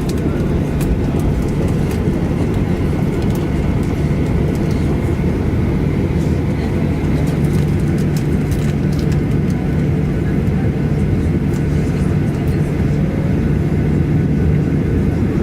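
Steady cabin rumble of a Boeing 737-800's CFM56-7B jet engines running at an even power, with a faint whine above it and a few light cabin rattles.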